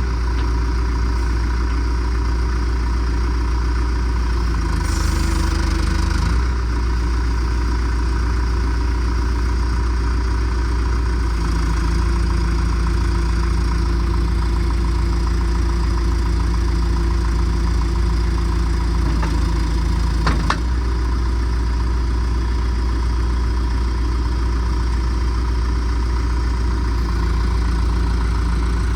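John Deere 310SG loader backhoe's diesel engine running steadily. Its note shifts slightly a few times, and there is a brief sharp click about twenty seconds in.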